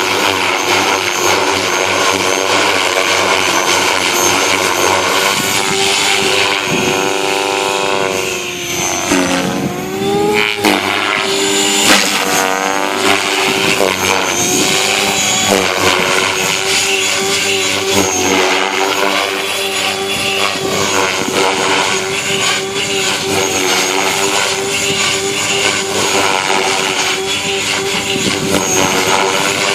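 Align T-Rex 500X electric radio-controlled helicopter in flight: a steady whine from the motor and drivetrain over the buzz of the rotor blades. About a third of the way in, the pitch sweeps down and back up once before settling steady again.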